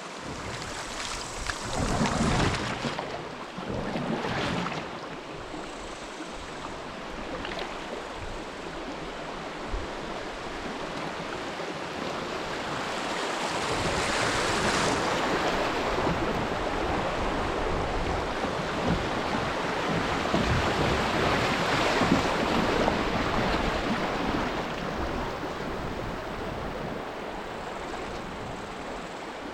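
Flowing river water rushing steadily, with some wind on the microphone; it grows louder about halfway through.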